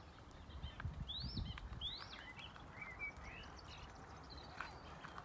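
A small songbird singing a short phrase of about six quick chirps, each rising and falling in pitch, starting about a second in.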